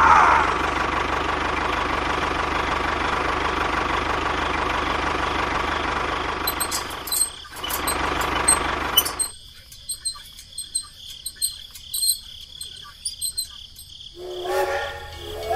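Small electric motor and plastic gearbox of a toy tractor whirring steadily, cutting out about nine seconds in, leaving faint scattered clicks. A pitched sound with several tones begins near the end.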